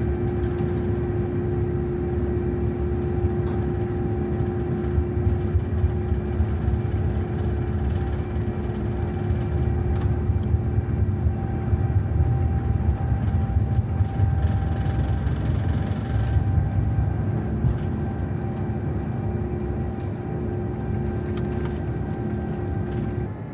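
Airbus A350-900 jet engines at takeoff and climb power: a steady, loud rumble with constant hum tones over it. The sound drops suddenly just before the end.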